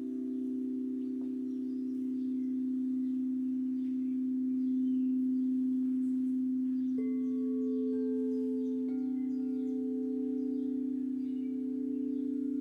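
Singing bowls ringing with a steady, sustained hum, a new higher tone joining about seven seconds in and two more soon after; faint bird chirps sound behind them.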